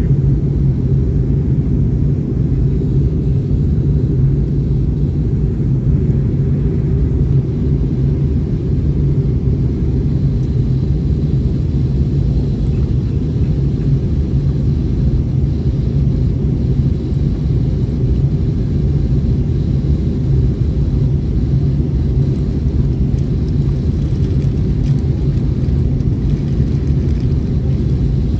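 Steady low rumble of jet airliner cabin noise, the engines and airflow heard from inside the cabin, holding an even level throughout.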